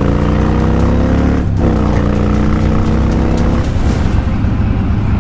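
A motor vehicle's engine passing close by. Its pitch rises, drops sharply about one and a half seconds in as it goes past, then falls slowly away over a steady low rumble.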